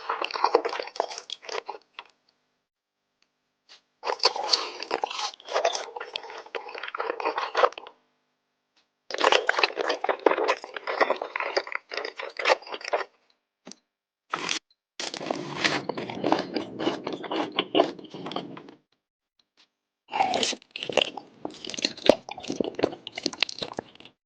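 ASMR eating sounds: close-up crunchy biting and chewing in about five bursts of a few seconds each, every burst cutting off suddenly into dead silence.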